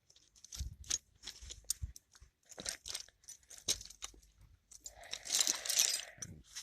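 Irregular clicks and crunching handling noises, then a denser rustling scrape lasting about a second near the end.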